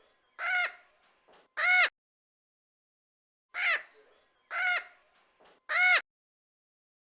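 A bird giving short, loud, pitched calls, each arching up and down in pitch. The calls come in groups of three, and the same group repeats about every four seconds, looped.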